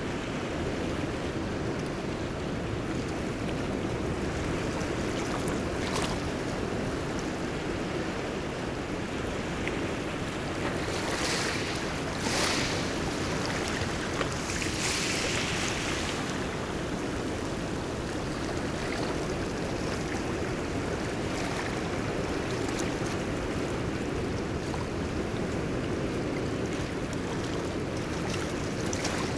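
Ocean waves washing and hissing steadily, with wind on the microphone; a few louder rushes of surf come about a third and halfway through.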